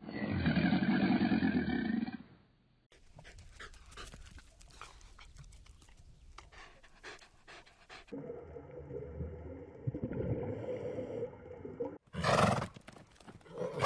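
A crocodile's low, pitched growl for the first couple of seconds, then a German shepherd panting. After a stretch of steadier sound, a horse calls loudly near the end.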